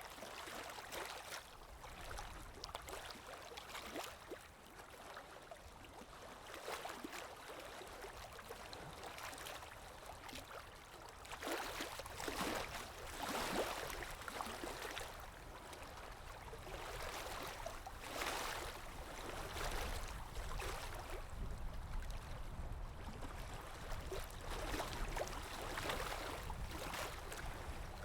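Water lapping in irregular swells every second or two, with a low wind rumble underneath.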